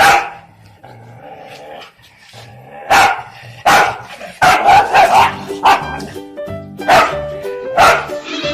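A dog barking repeatedly over background music. There is one loud bark at the start, then a string of barks from about three seconds in.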